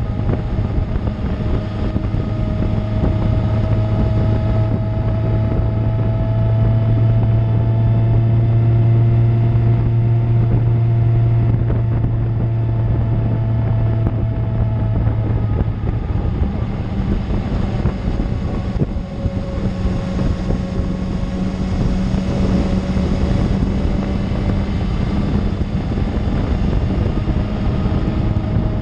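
A 2000 Suzuki GSX-R750's inline-four engine running at a steady cruise through an Akrapovic exhaust, with wind noise on the microphone. About halfway through, the low steady engine note gives way to a higher one.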